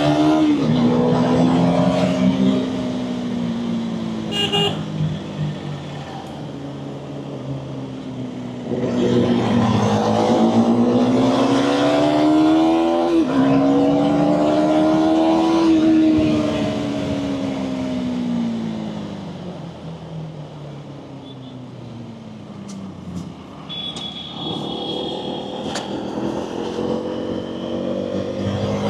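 Kawasaki ZX-10R's inline-four engine under way, its pitch climbing as it accelerates, dropping sharply at a gear change, climbing again and then falling away as the rider rolls off. A vehicle horn sounds for about two seconds near the end.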